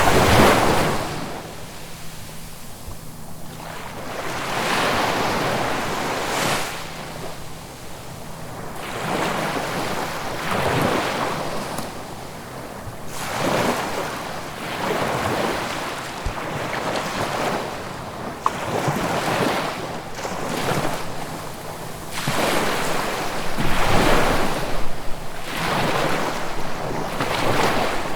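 Ocean waves breaking and washing on the shore, one swell after another every few seconds, with the loudest surges near the start and again near the end.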